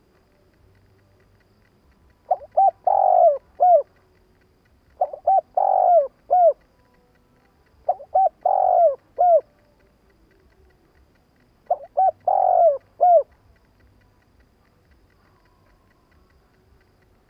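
Spotted dove cooing: four phrases, each a couple of quick notes, a longer falling coo and a short closing note, repeated every few seconds. The calling stops about two-thirds of the way through.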